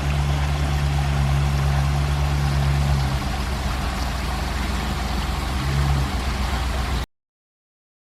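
Water running down a pondless waterfall's rocky stream and falls in a steady rush, over a steady low mechanical hum. The sound cuts off suddenly about seven seconds in.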